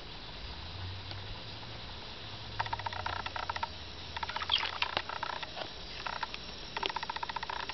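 Frog calling in four bursts of rapid pulsed croaks, starting a little under three seconds in and ending near the end.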